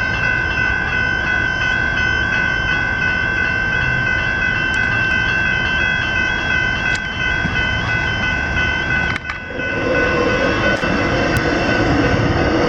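Electronic level-crossing bells ringing steadily, with a train rumbling through the crossing beneath them. About nine seconds in the sound cuts abruptly, and a louder passing-train noise follows without the bells.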